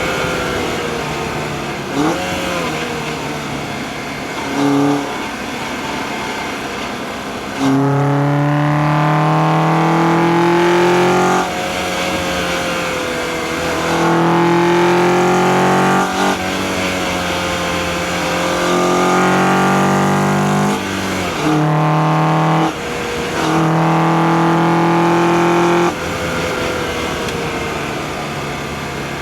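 2004 Acura TSX's K24A2 2.4-litre four-cylinder engine, heard through an engine-bay microphone, pulling hard in several bursts. The pitch climbs slowly through each pull and falls back as the throttle eases or a gear is changed, with quieter running in between.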